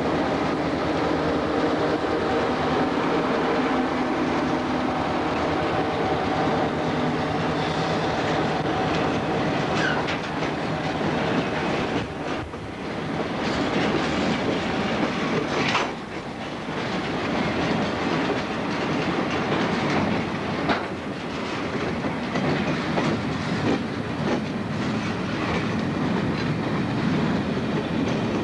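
A diesel-powered freight train running, heard from aboard: the steady hum of the locomotive engine under the rattle and clickety-clack of gondola cars rolling over the rails, with a few louder knocks along the way.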